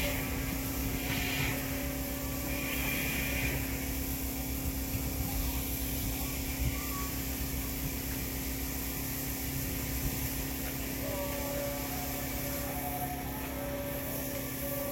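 Electric commuter train running: a steady low rumble with a constant hum, and faint whining tones coming in a little past the middle.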